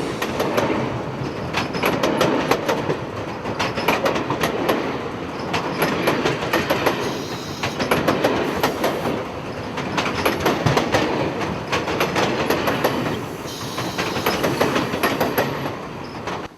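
A train drawn by Southern Pacific steam locomotive 2472 rolling past close by, its wheels clattering over the rail joints in a dense run of clicks. The clatter swells and eases every couple of seconds as the cars go by.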